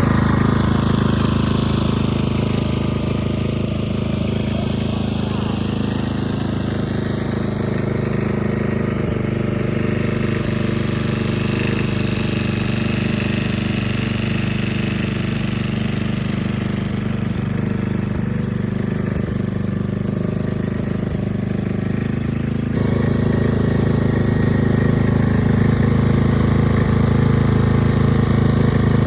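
Engine of a mid-to-late-1980s Snapper riding mower running steadily under load as the mower climbs a steep incline, the rebuilt clutch holding without slipping. The engine gets louder about three-quarters of the way through.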